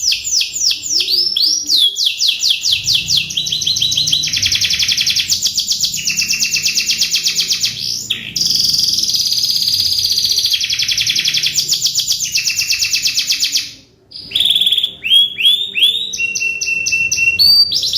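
Domestic canary singing a training-style song: fast rolling trills of rapid repeated notes, switching to a new phrase every second or two, with a short pause about fourteen seconds in.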